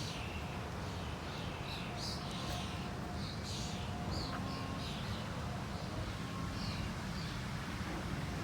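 Small birds chirping and calling on and off, many short calls scattered throughout, over a steady low rumble.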